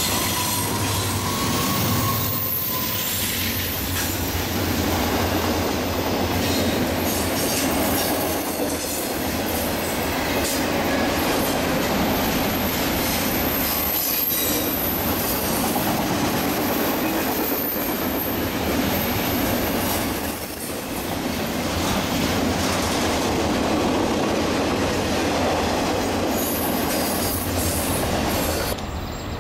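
Norfolk Southern double-stack intermodal freight train passing close by on a curve: the lead locomotives give way to the steady rumble and clatter of the stack cars' wheels on the rails, with wheel squeal from the curve.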